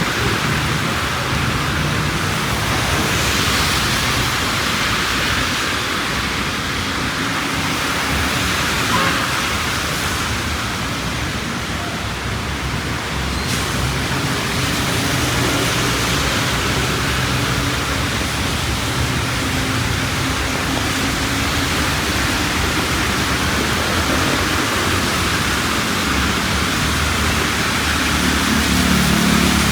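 Heavy rain falling as a steady, dense hiss, with a low hum of street traffic underneath that gets louder near the end.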